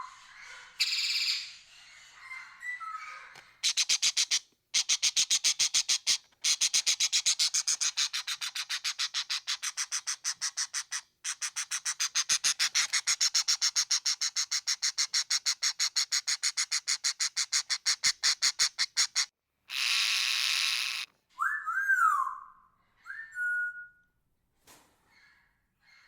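Parrot calls: a long, fast chattering series of harsh notes, several a second, for about fifteen seconds. A single harsh screech follows, then a couple of short whistled calls that rise and fall in pitch near the end.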